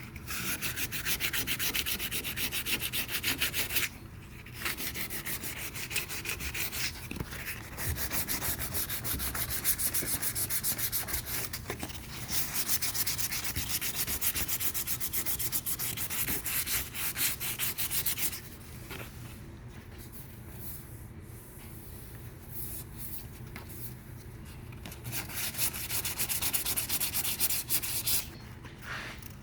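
Abrasive paper sanding down orange peel in cured high-build epoxy primer on car body sheet metal. It rasps steadily in several runs, stopping briefly now and then, and goes quieter for a stretch about two-thirds of the way through before picking up again near the end.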